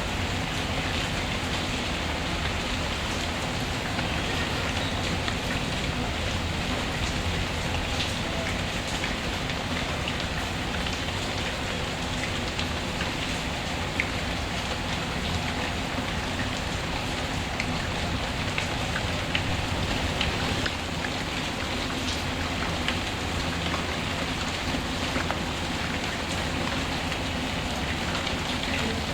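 Steady rain falling, with a few sharp ticks and pops from a crackling wood fire, the loudest about halfway through.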